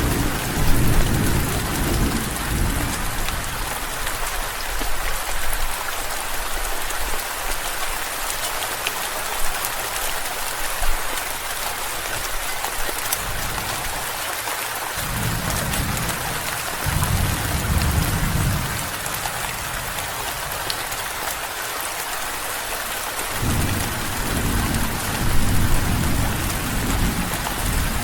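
Steady rain with a patter of drops, and rolling thunder rumbling low three times: near the start, in the middle, and again near the end.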